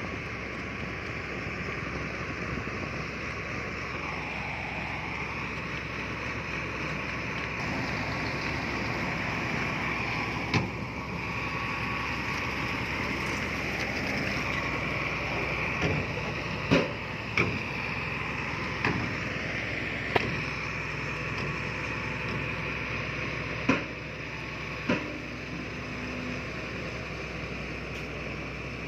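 Heavy earthmoving machinery running steadily, with about seven sharp knocks over the middle of the stretch.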